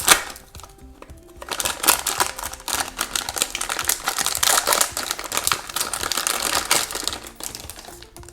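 Crinkly blind-bag toy packet being torn open and handled, a dense run of rustles and crinkles, over soft background music.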